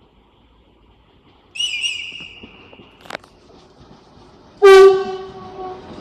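A high, shrill whistle blast of over a second, wavering at its start, then a sharp click. About a second and a half later comes a loud train horn blast of about a second, dropping slightly in pitch, as rail noise from the train begins to rise.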